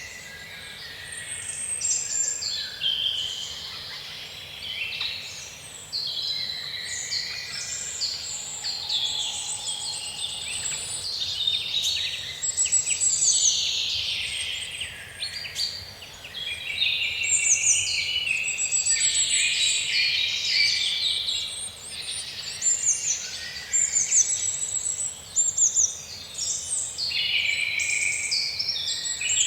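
Woodland dawn-chorus-style birdsong: several songbirds singing over one another in overlapping high whistles and rapid trills.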